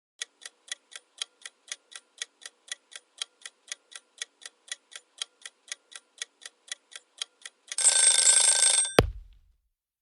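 Ticking clock sound effect, about four ticks a second, for about seven and a half seconds, then a short alarm-like ringing for about a second. A sudden hit that drops into a low thud follows about nine seconds in.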